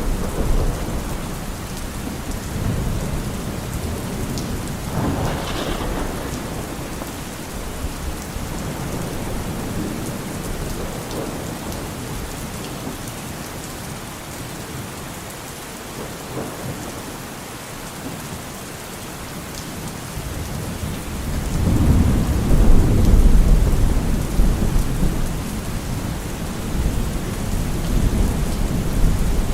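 Steady rain with rolling thunder. A rumble fades away early on, and a louder, long roll of thunder builds about two-thirds of the way through.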